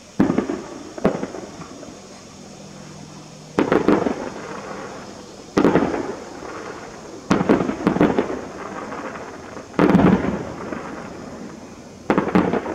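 Aerial firework shells bursting at a distance: seven booms at irregular intervals of about one to two and a half seconds, each trailing off in a rolling, rumbling echo.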